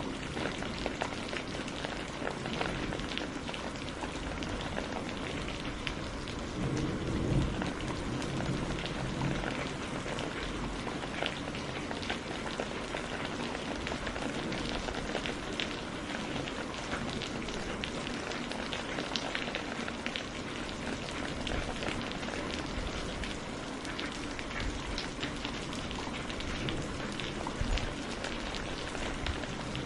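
Heavy rain falling steadily, with many individual drops pattering on a surface. There is a brief low rumble of thunder about seven seconds in.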